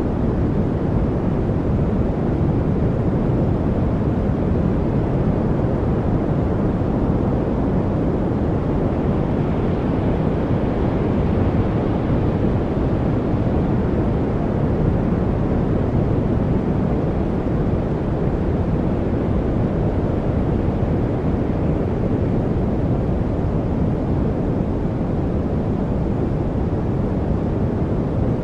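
A steady noise track, a deep even rush with little treble and no distinct events, of the kind played as background noise for focus.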